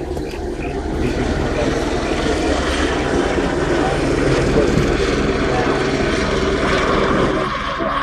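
Aircraft engine droning overhead, a steady low drone that swells about a second in.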